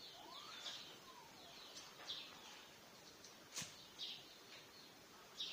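Faint bird chirping: short high chirps every half second or so, with a few soft gliding calls, and one sharp click about three and a half seconds in.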